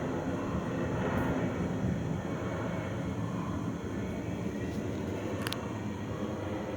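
Big aircraft flying low overhead: a steady deep engine rumble that eases off slightly as it passes. A brief click about five and a half seconds in.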